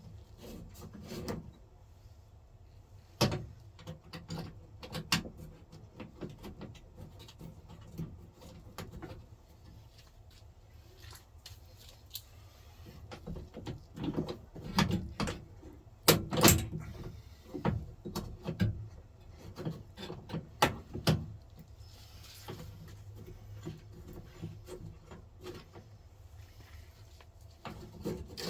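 Irregular clicks and knocks of hand tools and metal parts being worked in a pickup truck's door latch and handle mechanism. They come sparsely at first and cluster in a busy run past the middle.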